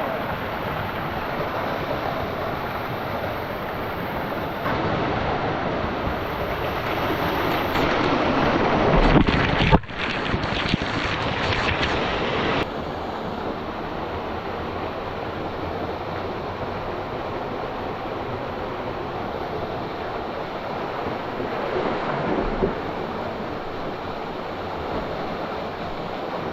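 Rushing canyon water, a steady loud noise. It swells into a louder surge about nine seconds in, breaks off sharply, then settles back to a steady rush after a few more seconds.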